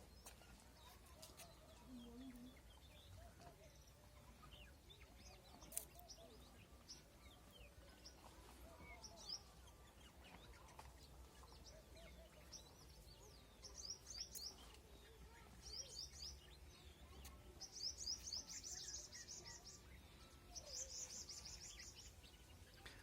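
Faint bird chirping, then four rapid high-pitched chirring trills in the second half, each lasting about one to two seconds.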